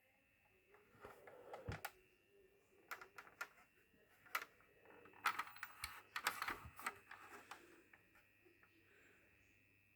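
Canal+ Syster decoder giving off a faint, steady whirring hum, as if something were spinning inside it like a fan or hard drive. Irregular clicks and crackles come over it, densest from about five to seven and a half seconds in.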